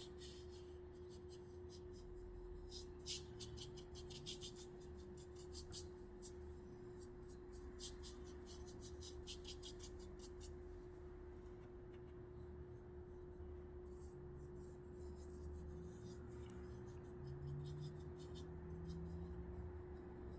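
Faint dabbing and scratching of paint being applied to paper, clusters of small light taps, over a steady low hum.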